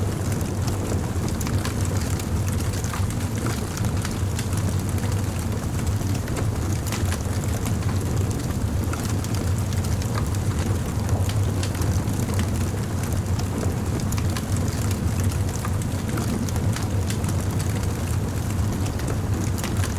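Wood campfire burning: many small sharp crackles and pops scattered irregularly over a steady low rumble.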